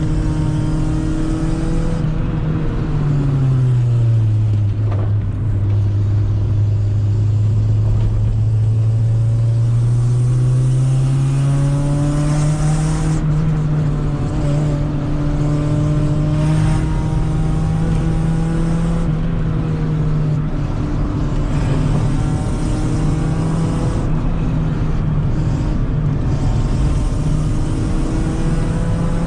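1995 Honda Civic engine running through its rust-holed original exhaust, with a steady note. A few seconds in, the pitch drops and stays low, then rises again over a few seconds and holds.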